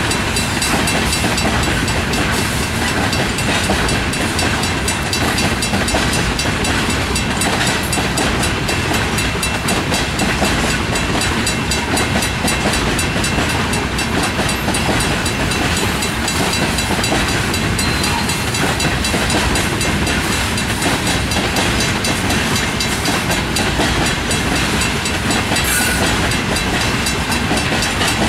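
Freight train cars rolling past a grade crossing, with the steady rumble and clatter of steel wheels on the rails.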